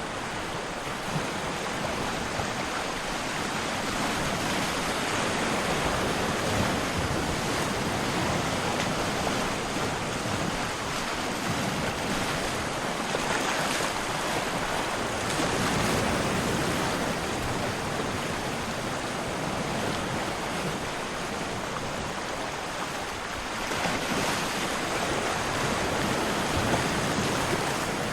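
Ocean surf washing in: a steady rush of waves that swells and eases every several seconds.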